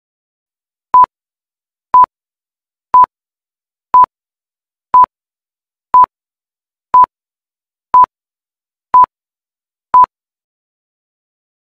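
Quiz countdown timer beeping: ten short, identical electronic beeps at one steady mid pitch, one a second, each marking a second of the answer countdown.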